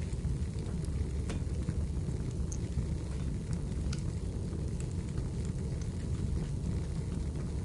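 Wood fire burning in a fireplace: a steady low rumble with sparse sharp crackles and pops from the burning firewood.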